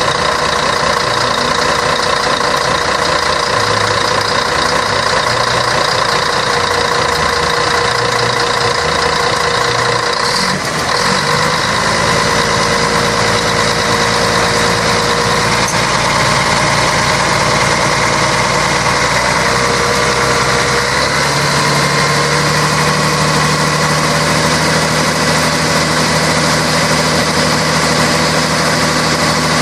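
Scania K113 bus engine, an 11-litre straight-six diesel, running steadily. There is a brief break about a third of the way in, and its low tone shifts about two-thirds of the way in.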